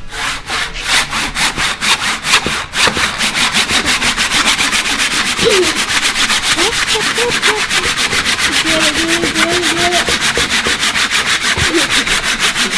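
Hand saw cutting through old barnwood in quick, even strokes, about five a second, with the cut nearly through.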